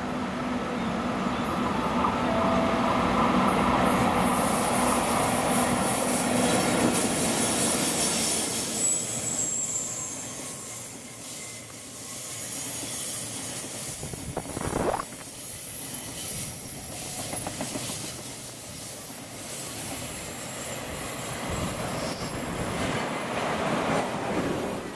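Two EF64 electric locomotives pass close with a steady hum, followed by a long string of Taki 1000 oil tank wagons rolling by, their wheels clattering over the rail joints with some squeal on the curve. Near the end a 383 series express train grows louder as it comes in on the other track.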